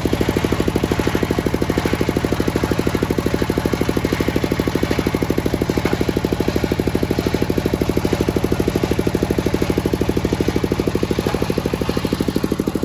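Engine powering a circular sawmill, running steadily with a fast, even chugging of about ten beats a second.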